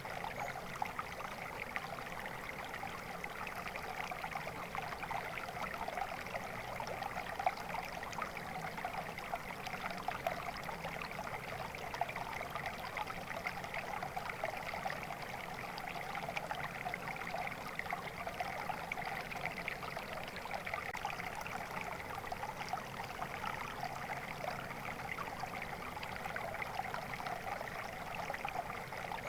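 Flowing water: a small stream running steadily over stones, with a constant babbling and trickling.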